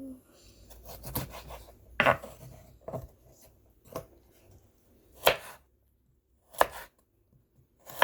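Kitchen knife chopping carrots on a cutting board: separate sharp strokes, about one a second, unevenly spaced.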